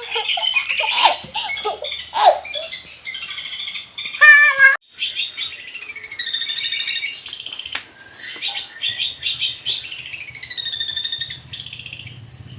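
Young long-tailed shrike practising its song: a rambling run of varied warbling phrases, chatters and harsh notes, with a loud wavering phrase about four seconds in.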